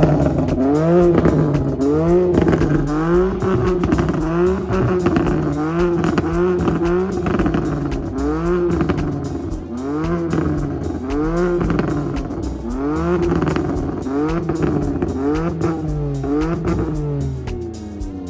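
Performance car engines revved hard over and over, the pitch climbing and falling back about once a second, several engines overlapping over a low rumble.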